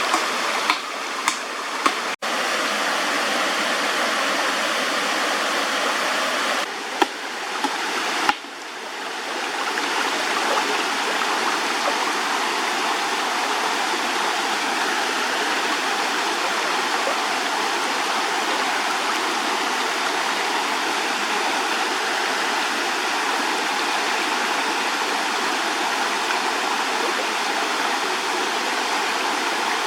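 Steady rush of flowing stream water, with a few sharp clicks in the first two seconds and brief abrupt breaks about 2, 7 and 8 seconds in.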